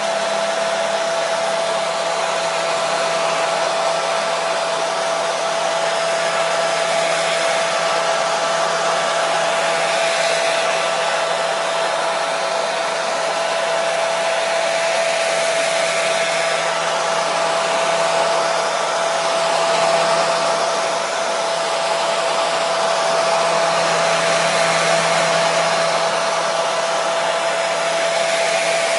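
Hair dryer running steadily: a constant rush of air over a motor's steady whine, played continuously as white noise for soothing babies to sleep.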